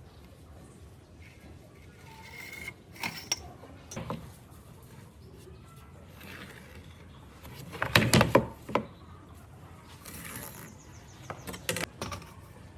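Sporadic clicks and knocks of hand work in a woodworking shop, the loudest cluster about eight seconds in.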